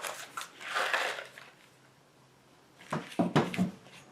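Hard objects being handled on a workbench: a couple of sharp clicks at the start, a scraping rustle about a second in, then a quick run of knocks and clinks near the end.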